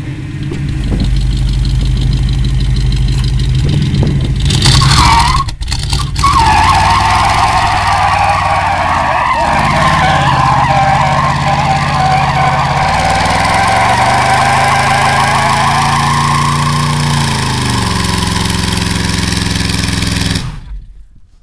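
Big-block V8 car doing a burnout: the engine revs hard, and from about five seconds in the spinning rear tyres squeal steadily for some fifteen seconds while the revs rise and fall. The sound cuts off sharply near the end.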